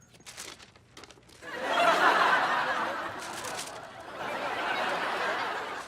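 Sitcom studio audience laughter, a crowd of many people laughing together, starting about a second and a half in and easing off slightly toward the end, after a few faint ticks.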